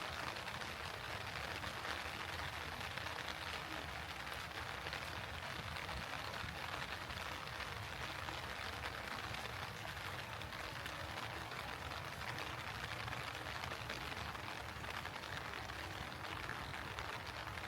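Steady heavy rain falling, an even hiss of many fine drops.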